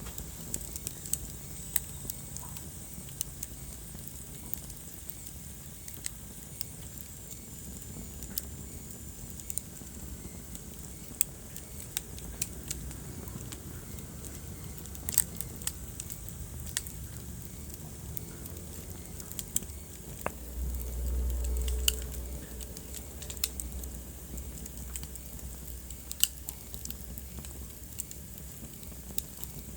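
Wood fire burning in a fireplace, crackling with irregular sharp pops over a steady low rumble of flame. About two-thirds of the way through, a low rumble swells for a second or so.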